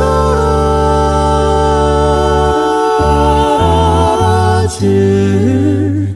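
A cappella vocal group singing held chords in close harmony over a sung bass line, with no instruments; the bass moves to new notes a few times.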